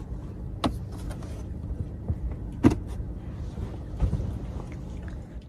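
A steady low rumble with a few sharp clicks and knocks over it, the loudest about two and a half seconds in.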